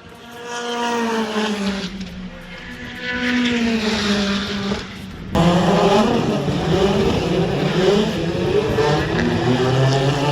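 British Touring Car Championship race car engines going past at speed. Two cars pass one after another, each engine note rising and then dropping away; about five seconds in it suddenly gets louder as several cars go by together, their notes overlapping.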